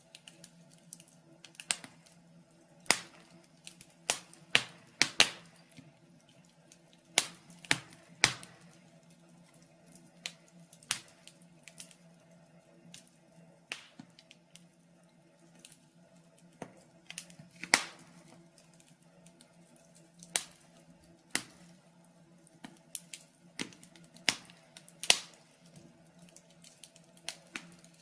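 Wood fire burning in a fireplace, crackling with sharp, irregular pops about one or two a second, some much louder than others, over a faint steady low hum.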